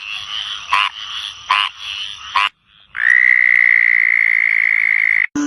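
Frogs calling: four sharp croaks about a second apart over a steady rasping chorus, then, after a brief break, one long, loud, even trill lasting about two seconds that cuts off abruptly.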